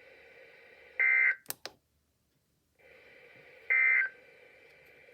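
Emergency Alert System end-of-message data bursts on a radio: two short, harsh, buzzy digital tone bursts, one about a second in and another near the end, each about a third of a second, marking the end of the severe thunderstorm warning. Faint radio hiss runs under them, with a couple of sharp clicks after the first burst and a short gap of dead silence.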